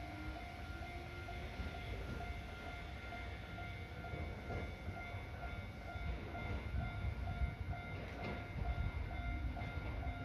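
Ohmi Railway train rumbling and knocking along the track at a station. A short high tone repeats about twice a second throughout, and a low tone rises slowly near the start.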